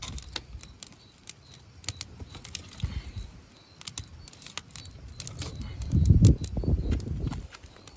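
Sticks and branches being handled and stacked for a bonfire: scattered sharp snaps and clicks of dry wood, with a low rumble about six seconds in.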